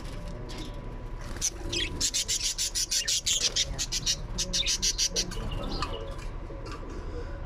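Small birds chirping: a fast run of short, high chirps, several a second, from about a second and a half in to about five seconds, with fainter calls around it.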